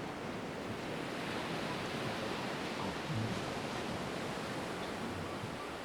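Steady rushing noise of wind and sea, with a brief low bump about three seconds in.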